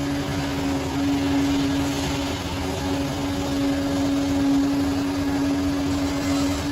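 Bulldozer's diesel engine running steadily at working revs, with a steady whine over the rumble and clatter of the machine.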